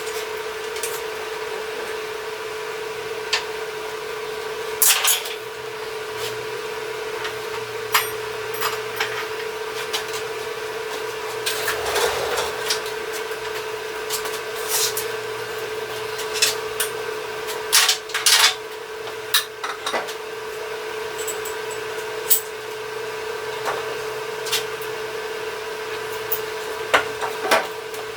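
Metal parts and hand tools clinking and knocking now and then, a few sharper strikes among them, over a steady hum.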